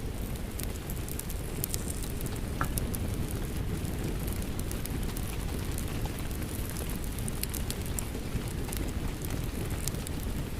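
Crackling wood fire mixed with steady rain: a low, even rushing hiss with frequent sharp pops and snaps scattered throughout.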